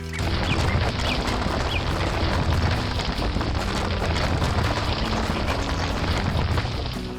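A loud, sustained rumbling noise, heaviest in the low end, that cuts in and cuts off abruptly.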